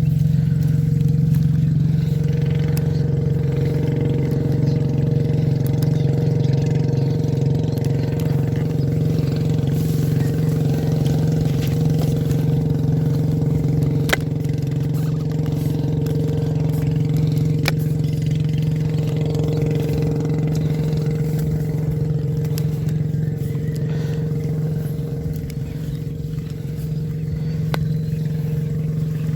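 A small engine running steadily at a constant speed, with a couple of sharp clicks partway through.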